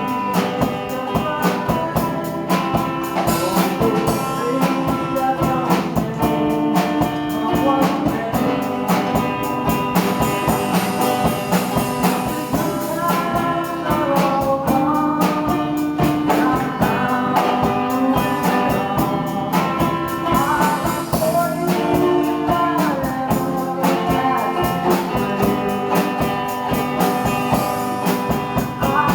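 Strummed guitar with singing: a folk song played and sung without a break.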